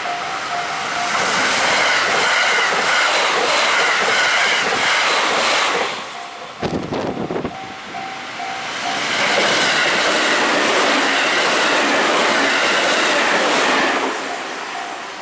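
A Japanese level-crossing warning bell dinging in a steady repeating pattern, drowned out by an electric train passing with wheels clattering on the rails. After a break about six and a half seconds in, the crossing bell rings again, a second train passes, and the bell is heard again near the end.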